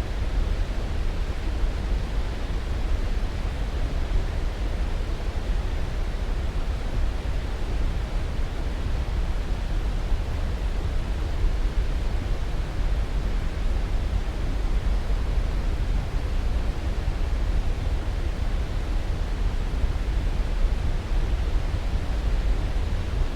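Sleep-aid noise track: a steady, even rushing noise, deep and heavy in the low end, with no changes or separate sounds.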